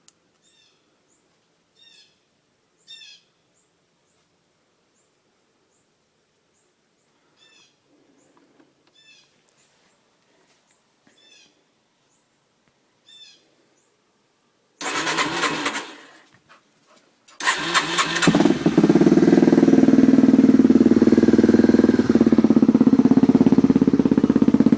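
Cold start of a 2008 Yamaha TT-R230's single-cylinder four-stroke engine, fitted with a big-bore kit and an FMF Power Core 4 exhaust. After about fifteen seconds of only faint bird chirps, it gives a short burst of cranking and firing, then about two seconds later catches and keeps running steadily.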